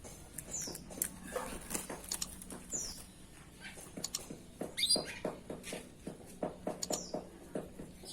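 Canary giving short, high call notes that fall in pitch, about one every two seconds, among scattered sharp clicks and taps.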